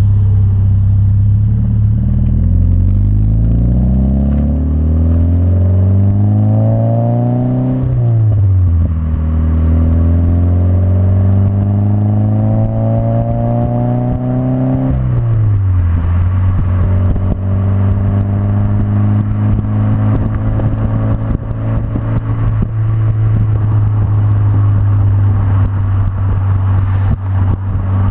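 Scion FR-S's flat-four engine through an Invidia N1 exhaust with a catless front pipe: idling, then revved up slowly and let fall twice, each rev climbing for several seconds before dropping sharply back. It then settles to a steady idle.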